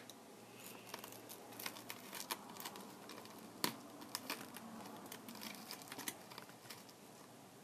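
Faint, scattered clicks and crackles of hands and small tools working on a Kindle Fire tablet's parts during a screen repair, with the sharpest click about three and a half seconds in. The clicking dies away near the end.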